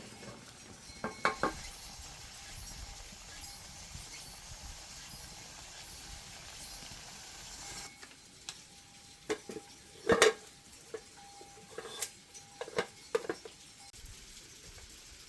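Scattered knocks and clinks of hard objects, a few ringing briefly, over a faint steady hiss; a pair comes about a second in and a cluster later on, the loudest near the middle of that cluster.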